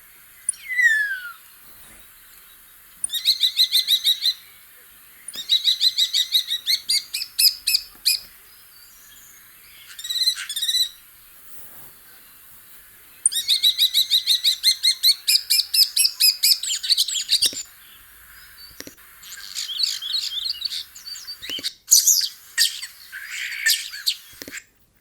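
Common starling singing: a falling whistle, then several bursts of rapid clicks, rattles and chattering warbles, with short pauses between the phrases.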